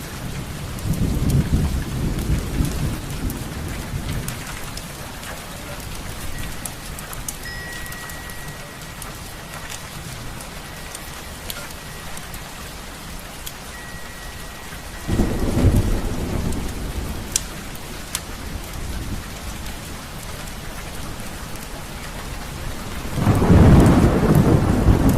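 Steady rain with rolls of thunder: one rumble near the start, another about halfway through, and the loudest building near the end.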